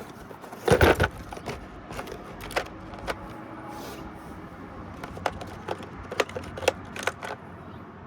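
Hand tools clinking and knocking on metal while a condenser fan motor is being worked loose from its mount, with a louder clatter about a second in and then scattered sharp clicks.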